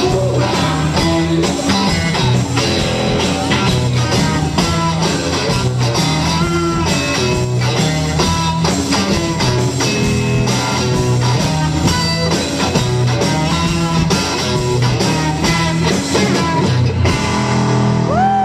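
Rockabilly-blues band playing loud live music: guitar over bass and drums keeping a steady beat.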